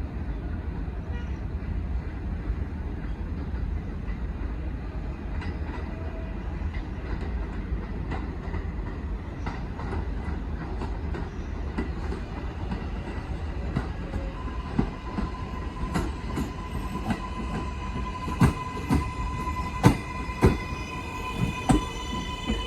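New York City subway 4 train rumbling along the rails. Partway through, a steady electric motor whine comes in, and wheel clacks over the rail joints grow louder and sharper toward the end, as the train comes in to the station.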